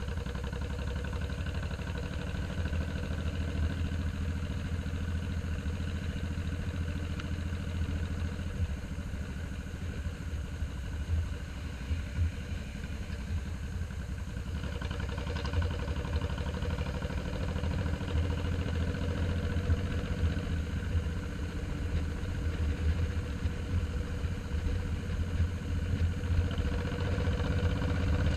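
Cruiser motorcycle engine running steadily while being ridden, heard from the rider's position, getting a little louder near the end.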